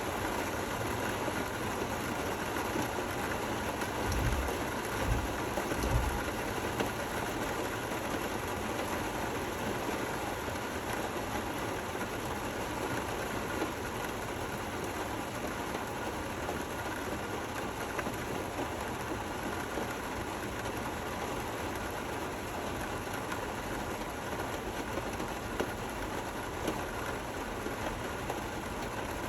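Steady rain falling, an even continuous hiss, with a few brief low thuds about four to six seconds in.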